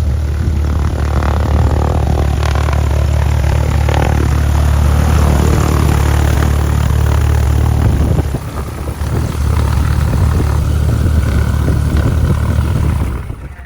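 Cessna 172's piston engine and propeller droning steadily, heard from inside the cabin. The sound dips briefly about eight seconds in and cuts off abruptly near the end.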